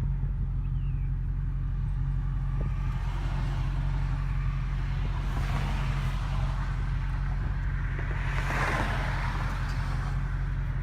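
Car engine running steadily while driving, with road noise that swells twice, around six and around nine seconds in.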